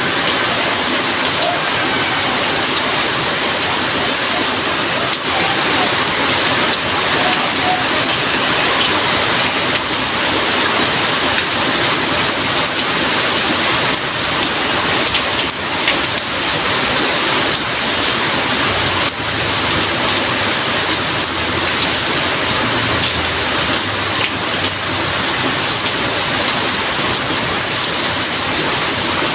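Heavy rain falling steadily, a dense even hiss with the patter of drops on surfaces. A faint low rumble sits underneath in the second half.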